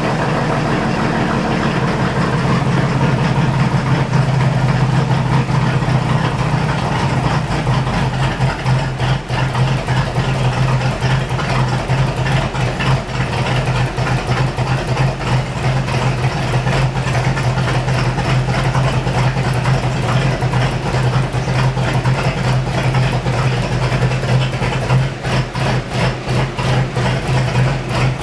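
Chevrolet S-10's 4.3L V6 with a flat-tappet hydraulic camshaft idling steadily.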